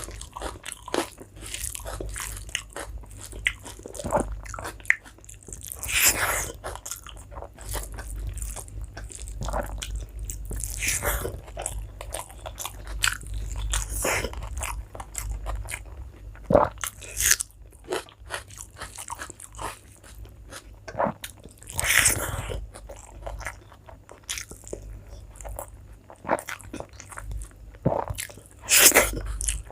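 Close-miked eating: wet chewing and lip smacks with irregular sharp crunches and clicks as mouthfuls of rice and curry are bitten and chewed.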